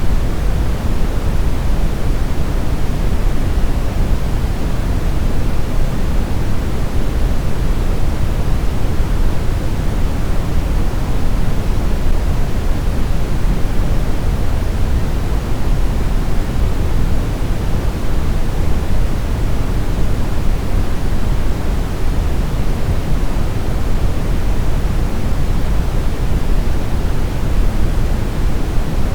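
Steady, loud brown noise: an even rumbling hiss, heaviest in the bass and falling off in the treble, with no change or events.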